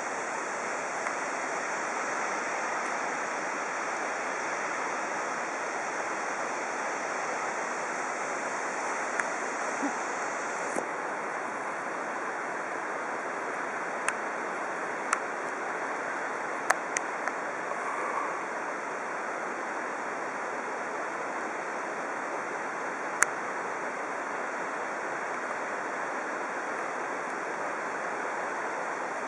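Steady rushing roar of the Casca d'Anta waterfall, the São Francisco River dropping 186 m down a cliff face. A few short sharp clicks stand out over it in the middle stretch.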